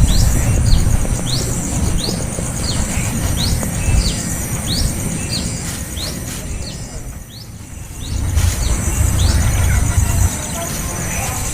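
Small bird giving a series of short, sharp, high chirps, about two a second, which stop about nine seconds in. A steady high hiss and a low rumble run underneath.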